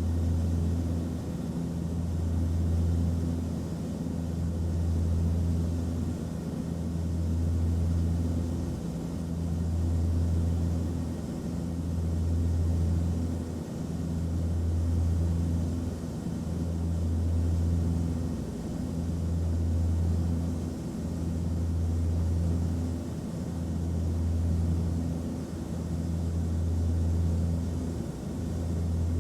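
Airliner cabin noise in flight: a steady low engine drone over a faint hiss of airflow. The hum swells and fades about every two and a half seconds.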